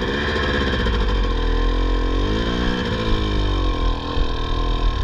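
Dirt bike engine pulling away with two riders aboard, its pitch rising, dipping and rising again as the throttle is worked.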